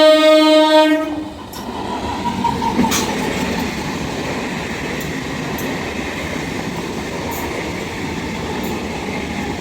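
A train horn sounds one steady blast that cuts off about a second in. A passing train follows, its wheels rumbling steadily on the rails with a few sharp clacks.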